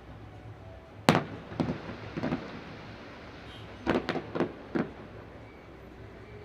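Aerial fireworks shells bursting in a series of sharp booms: a loud one about a second in, two more close after, then a quick cluster of four about four seconds in.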